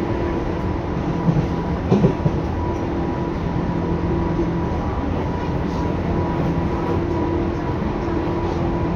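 Tobu 10030 series electric train car running, heard from inside above its line breaker: steady rolling rumble with a constant hum, and a few short knocks about one and two seconds in.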